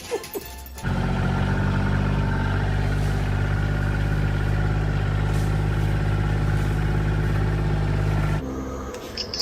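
A motor running at a steady pitch, starting abruptly about a second in and cutting off suddenly near the end.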